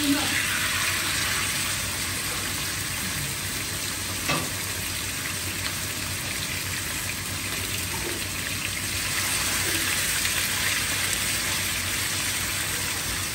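Steady sizzle of cooking oil as diced raw chicken breast fries in a pan beside sliced onions frying in a large pot. A single knock comes about four seconds in.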